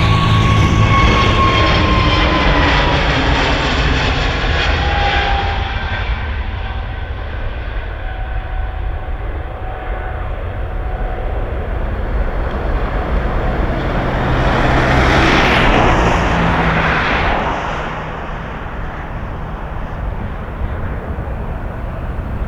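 Airliner's jet engines heard from the ground as the aircraft passes. A whine falls steadily in pitch over the first few seconds and fades, then a broad rush of engine noise swells and peaks about 15 seconds in before easing off.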